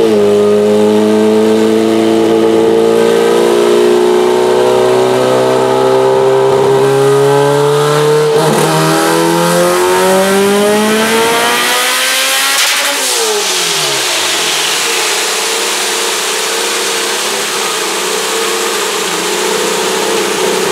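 Turbocharged Honda H22 four-cylinder making a wide-open-throttle pull on a chassis dyno: the engine note climbs steadily for about twelve seconds, then the revs fall quickly as the throttle closes, and it keeps running at a steady pitch.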